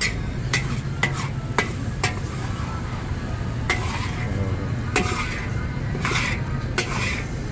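Metal spatula knocking on a wok about twice a second, then scraping and clanking as fried noodles are stirred and scooped, with a steady low hum underneath.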